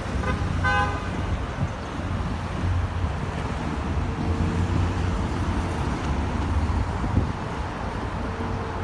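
Steady low outdoor rumble, like road traffic, with one short honk-like call about half a second in.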